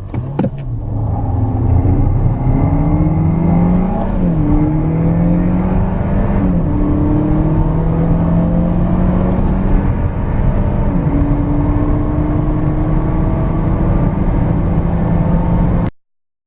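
Car engine accelerating hard from a standstill, pitch climbing in each gear and dropping at upshifts about 4, 6.5 and 11 seconds in; it stops abruptly about a second before the end.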